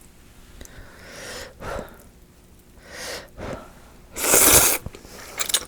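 Slurping hot soba noodles and broth: two softer slurps, then a loud, half-second slurp near the end.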